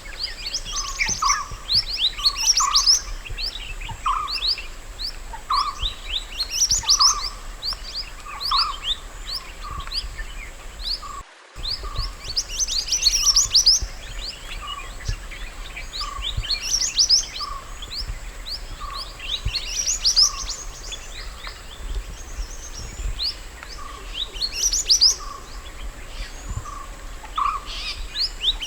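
Mantenan gunung singing: short phrases of quick, high, falling notes with lower chirps, repeated every couple of seconds, with a brief break about eleven seconds in.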